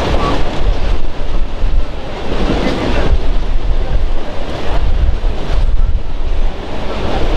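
Wind buffeting the microphone: a loud, uneven rushing roar with heavy low gusts.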